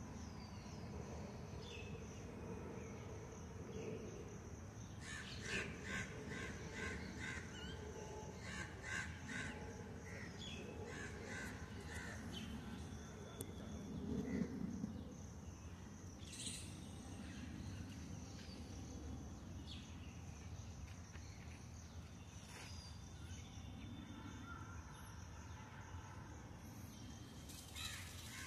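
Bird calls outdoors: a quick series of short harsh calls starting about five seconds in, with a few more later, over a steady high hiss and a low background rumble.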